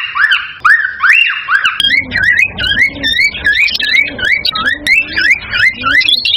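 Cockatiel whistling a fast series of repeated rising notes, about two a second. About two seconds in, the notes change to a wavering up-and-down whistle at the same pace. This is the breeding call played to stimulate cockatiels to mate.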